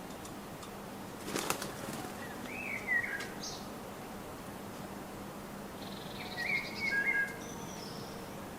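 A small bird's wings flutter in a brief burst about a second and a half in, followed by short chirping calls, twice, with some notes sliding downward.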